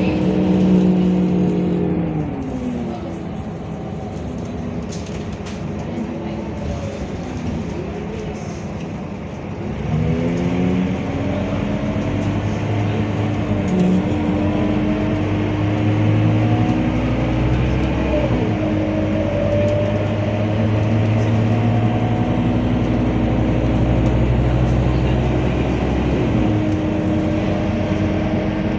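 Scania K230UB bus's five-cylinder diesel engine. Its note falls about two seconds in as the bus slows, runs low for several seconds, then rises about ten seconds in as the bus pulls away. It holds a steady note under load and drops again near the end.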